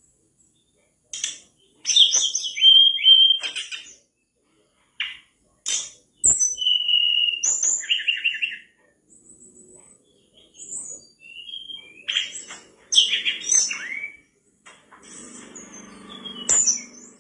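Mangrove blue flycatcher singing vigorously: bursts of high, varied whistles, sharp chirps and quick trills, broken by short pauses.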